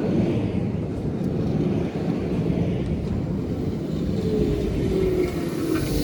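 A Roslagsbanan narrow-gauge electric train passing close by: a loud, steady rumble, with a faint whine that falls slowly in pitch near the end.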